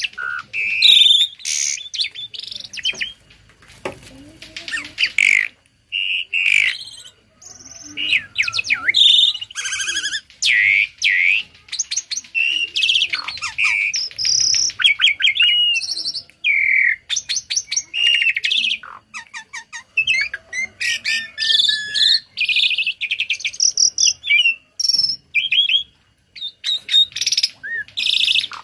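Pet jalak starling singing a loud, fast, varied song of whistles, rapid chattering trills and learned phrases, with only brief pauses.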